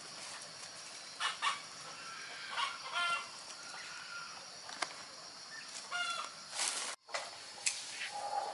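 Chickens clucking in short calls several times, with scattered clicks and a steady high-pitched hum underneath.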